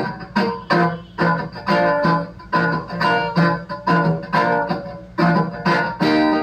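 Instrumental break of a song: guitar chords plucked or strummed at a steady pace, about two a second.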